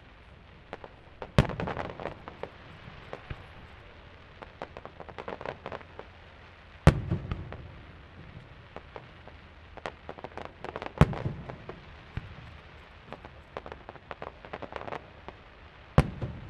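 Aerial fireworks shells bursting with four loud bangs, roughly every four to five seconds, each followed by a spray of crackling pops.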